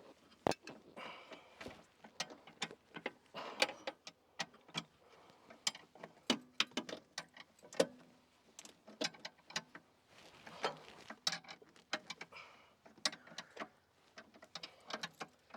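Metal hand wrenches clicking and clinking against bolts and the machine's steel as they are fitted and turned, in irregular sharp taps.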